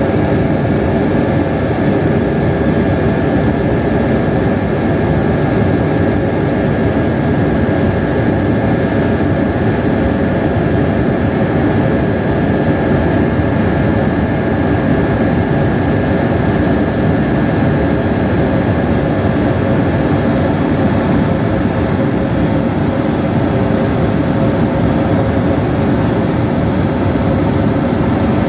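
Helicopter in flight: steady engine and rotor noise with a constant whine, no change in pitch or level.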